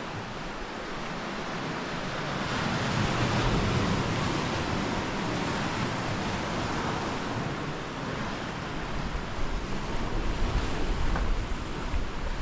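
Sea waves washing against the shore, swelling twice, with wind gusting across the microphone in low rumbling buffets during the second swell.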